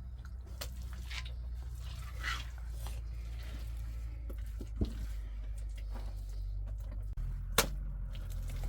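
Scattered light taps and rustles over a steady low rumble, with two sharper knocks, about five seconds in and again near the end.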